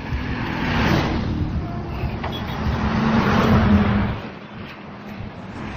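Motor vehicle engine and road noise, swelling twice and dropping away sharply about four seconds in.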